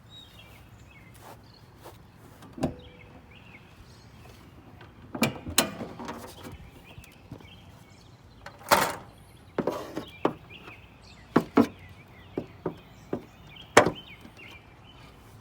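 A string of irregular knocks and clunks from the crash-damaged car's door being handled. The loudest, longest clunk comes a little past the middle. Birds chirp faintly behind it.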